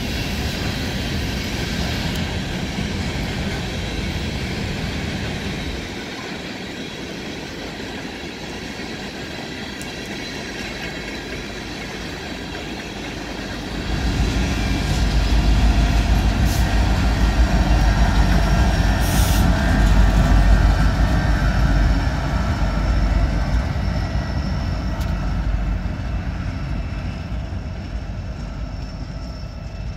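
A train rolling past on the tracks, a continuous heavy rumble of cars on the rails that grows louder and deeper about fourteen seconds in.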